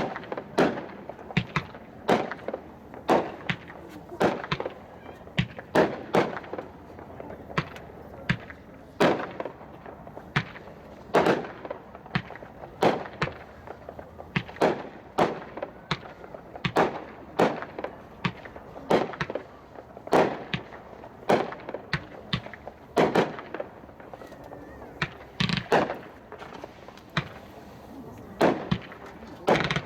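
Hot Shot Eternity 2 Minute, a 63-shot 500-gram consumer fireworks cake, firing: a steady string of sharp bangs, somewhat over one a second, some coming in quick pairs.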